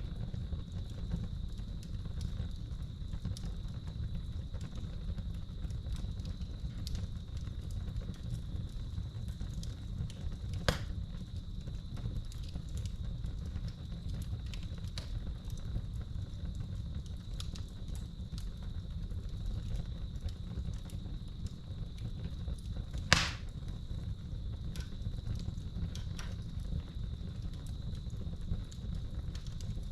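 Wood fire crackling in a fireplace, with a steady scatter of small ticks and two louder pops, one about a third of the way in and one about three-quarters in, over a low rumble. Crickets chirp in a steady high trill behind it.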